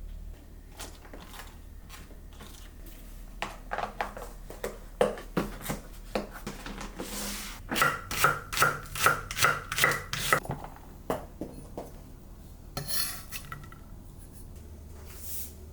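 Knife chopping on a cutting board: scattered knocks at first, then a steadier run of about two strokes a second for a couple of seconds, followed by a few short scrapes.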